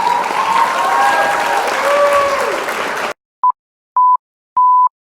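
A loud, noisy clamour like applause, with a few wavering voice-like tones in it, cuts off abruptly after about three seconds. It is followed by three steady electronic beeps at one pitch, each longer than the last.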